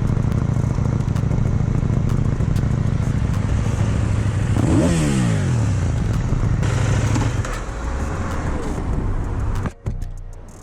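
Motorcycle engine running under way, a steady hum mixed with road and wind noise. About five seconds in, the engine pitch swings up and down briefly. The sound drops off sharply near the end.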